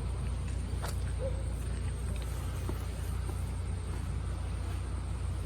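Steady low hum with a faint high whine above it, and a single click about a second in.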